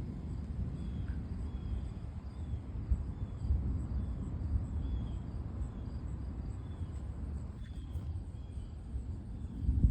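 Insects chirping in a steady, evenly repeating high pattern over a low, uneven rumbling noise.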